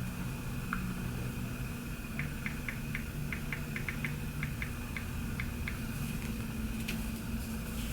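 Steady low background hum with a faint high tone, and a quick run of light clicks, several a second, from about two to six seconds in.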